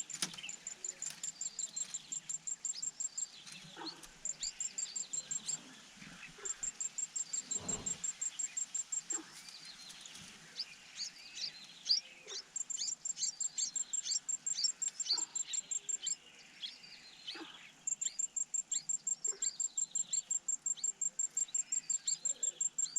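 An insect trilling in repeated bursts of rapid, even, high-pitched pulses, several seconds each with short gaps between them, over many short descending bird chirps.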